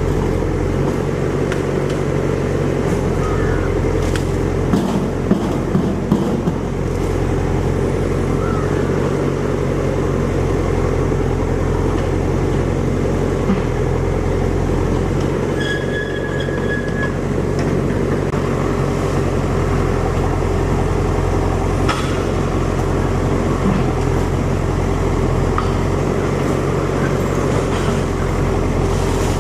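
A steady low engine hum, with a few sharp knocks about five seconds in and a short high tone a little past the middle.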